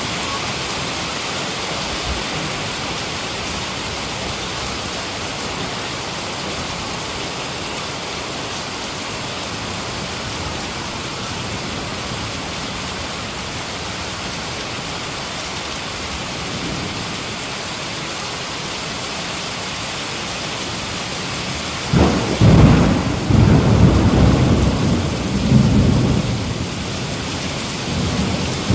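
Heavy rain falling steadily, then a loud rolling thunderclap breaks in near the end, rumbling in several swells.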